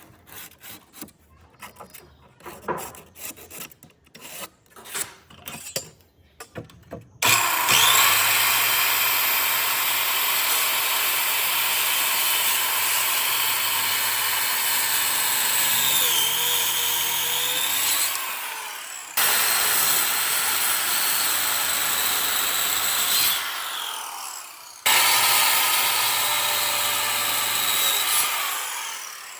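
A few seconds of scattered knocks and taps, then a power tool starts suddenly about seven seconds in and runs steadily with a high whine. It is switched off and spins down, then restarts, twice over, giving three runs in all, the last winding down near the end.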